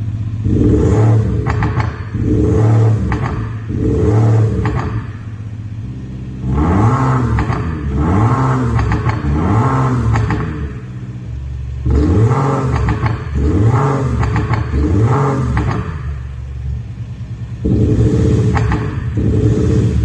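Xhaust electronic active exhaust sound system playing a synthetic V8-style engine note through its speakers, revved up and down in repeated quick blips about once a second, in several groups with steadier idle-like stretches between.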